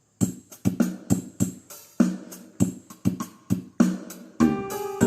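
Kolintang ensemble of struck wooden xylophones starting up: short, quickly fading struck notes in a rhythmic pattern, with fuller, longer-ringing notes coming in near the end.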